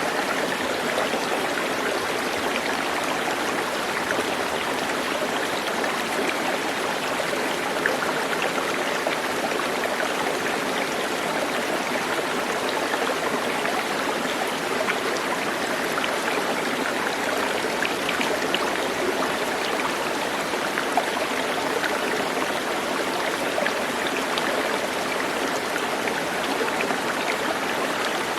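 A stream running steadily, water rushing and trickling with small scattered splashes.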